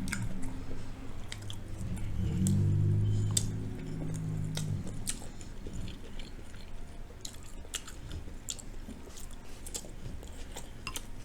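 Close-miked chewing of breaded General Tso's cauliflower and rice: wet mouth clicks and smacks throughout. A low, steady closed-mouth hum from the eater is heard at the very start and again from about two to five seconds in.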